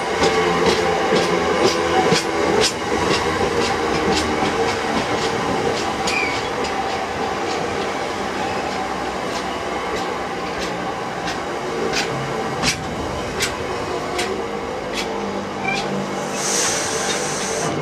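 Freight train hopper wagons rolling past: wheels clicking over rail joints in a quick, even rhythm, a few clicks a second, over a steady rumble. A brief hiss rises near the end.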